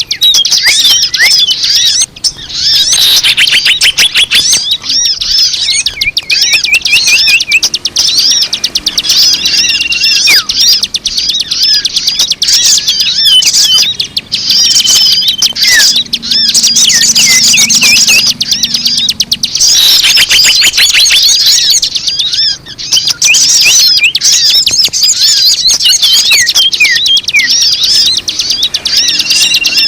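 Dense chattering of many small songbirds, rapid high chirps and twitters overlapping without pause: a bird-lure recording meant to draw in wild birds. Two short breaks, about two seconds in and again past the middle.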